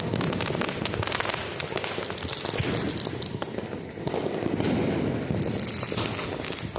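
Many firecrackers and fireworks going off at once: a continuous dense crackle with sharp cracks and bangs overlapping throughout.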